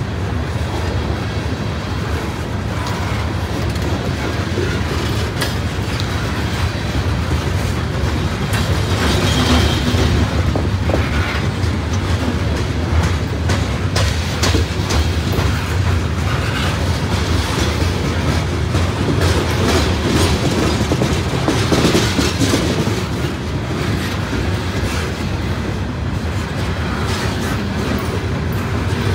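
Freight train of open-top hopper and gondola cars rolling past close by: a steady rumble of steel wheels on the rails, with irregular clicking and clacking as the wheels cross rail joints.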